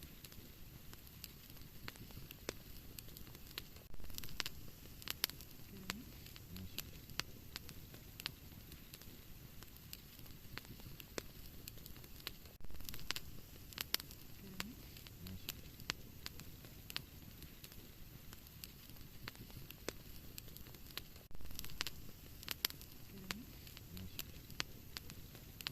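Wood fire burning in a fireplace: irregular sharp crackles and pops over a low rumble of flames, with a few short louder bursts of crackling.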